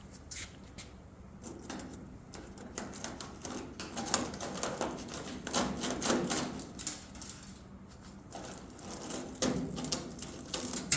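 Irregular clicking, tapping and rustling, like dry material being handled and pulled about, with louder stretches of rubbing in the middle and near the end.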